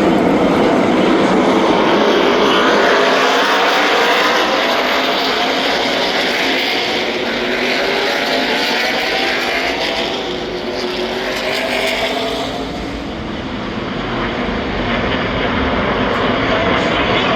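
A field of NASCAR Truck Series race trucks' V8 engines running at racing speed, many engines overlapping, their pitch shifting up and down as they go by. The engine noise eases a little past the middle and builds again near the end.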